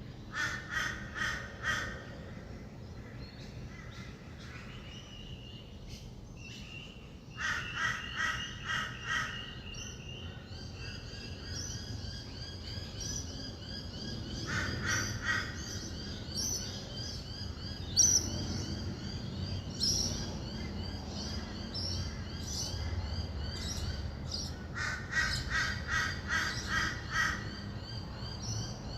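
Dawn birds: four bouts of harsh calls, each a quick run of about five evenly spaced notes, and from about a third of the way in a rapid high chattering, taken for rainbow lorikeets. A low steady hum of distant traffic runs underneath.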